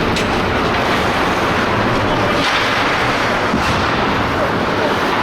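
Ice hockey game sound: a loud, steady rushing noise with a few faint knocks.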